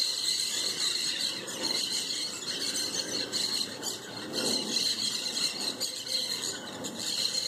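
A flock of feral parrots squawking and screeching continuously in a tree, a dense, harsh chorus of overlapping shrill calls.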